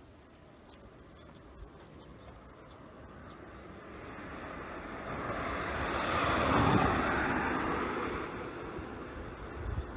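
A passing vehicle: a steady rushing noise that swells up, is loudest about two-thirds of the way through, then fades away.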